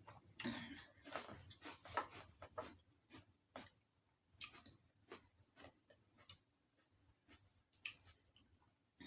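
Faint eating sounds: irregular short clicks and smacks of chewing, close up, coming thickly for the first few seconds and then only now and then.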